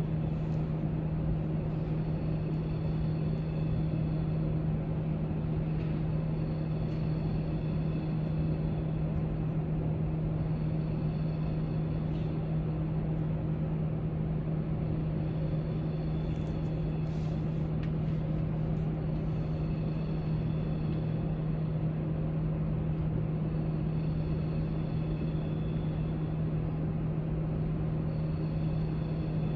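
Steady library room ambience: a constant low hum and rumble with no change in level, with a few faint scattered clicks, most of them around the middle.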